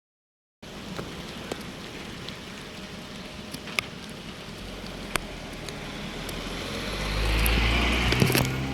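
Rain starting: a steady patter with scattered single drops ticking sharply on a surface. From about five seconds in, a motor vehicle's engine and tyre hiss build and pass, loudest near the end.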